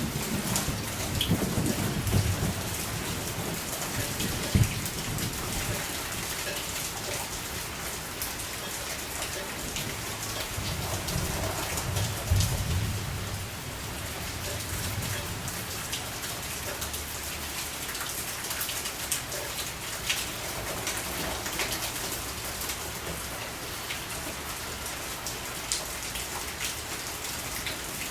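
Steady rain falling, an even hiss with scattered sharp drop hits close by. A low rumble swells and fades underneath, most clearly a little before halfway through.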